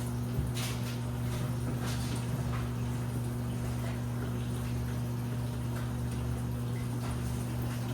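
Washing machine running: a steady low hum with faint water sounds and scattered light ticks over it.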